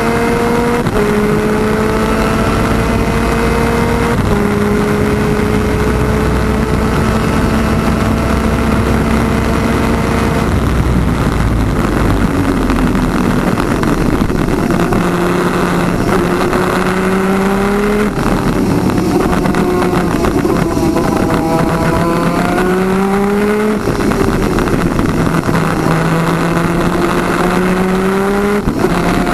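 PVP twin 250cc superkart engine at race pace, heard onboard: the engine note climbs and drops back at each upshift, holds high on a long pull, falls away under braking about ten seconds in, then climbs again through several quick upshifts. Wind noise rushes under it throughout.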